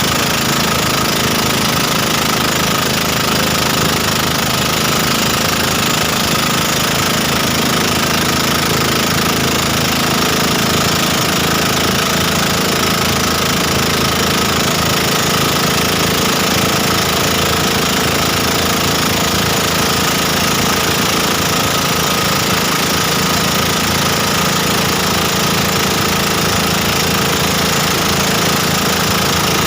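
Motorboat engine running at a steady pace under a steady rushing noise, unchanging throughout.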